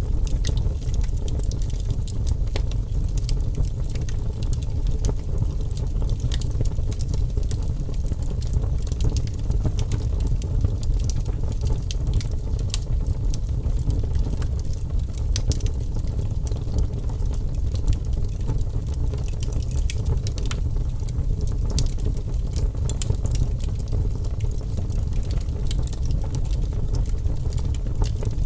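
Wood fire burning in a fireplace: a steady low roar of the flames with frequent, irregular sharp crackles and pops of the burning logs.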